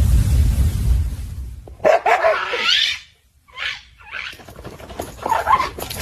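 A low rumble for the first second or so, then a pet animal's whining cries, several short ones in a row, one rising in pitch.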